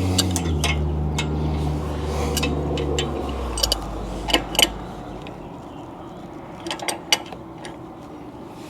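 A steady low hum that fades out about three seconds in, then scattered sharp metallic clinks of hand tools and steering hardware being handled.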